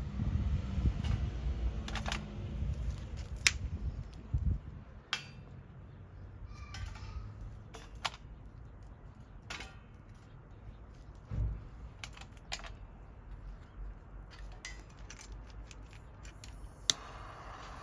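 Scattered clicks and light knocks of small objects being handled, with a low handling rumble in the first few seconds.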